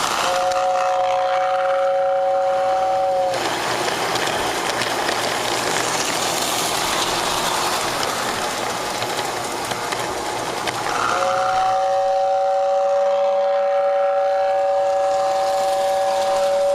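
Horn of a Lionel GP9 O gauge model diesel locomotive sounding two steady notes together, once for about three seconds at the start and again in a longer blast from about eleven seconds in, over the steady running noise of the model travelling along its track.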